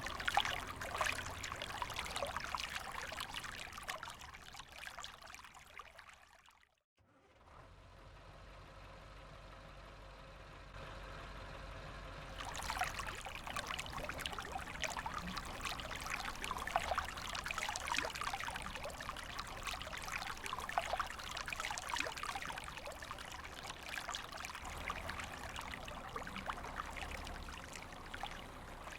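Running water trickling and pouring, as of a shallow river stream. It fades out a few seconds in, drops briefly to near silence, and comes back about twelve seconds in.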